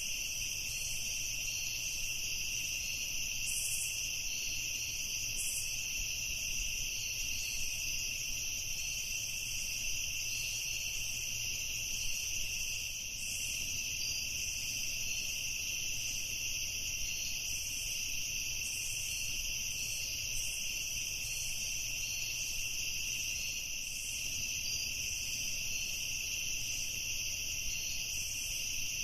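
Crickets chirping in a dense evening chorus: a continuous, high-pitched shrill that holds steady without a break.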